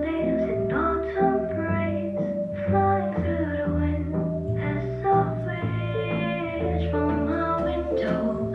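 Pop song played back through B&W 703 S3 floor-standing loudspeakers, recorded from the speakers in the room without editing: an instrumental stretch between sung lines, with a melody over held bass notes.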